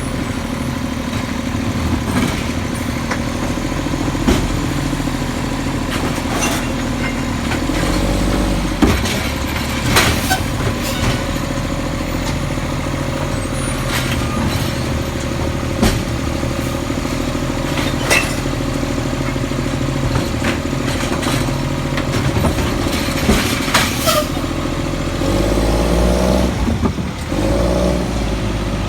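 Garbage truck's diesel engine running steadily, with repeated sharp clanks and knocks. Near the end the engine revs up for a couple of seconds.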